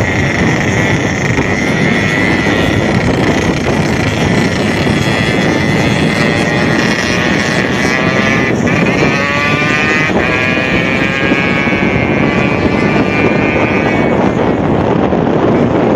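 Yamaha RX-King 135cc two-stroke single-cylinder motorcycle running loud through a Boban C33 aftermarket exhaust. A little past the middle its pitch climbs steadily for a few seconds as the engine picks up revs.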